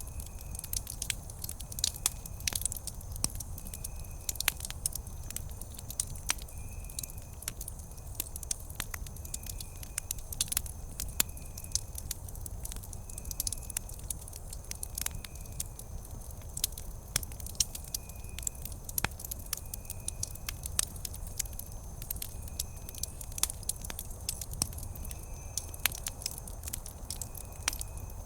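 Wood campfire burning, with frequent irregular crackles and sharp pops over a low rumble of flame. A faint high chirp repeats steadily in the background.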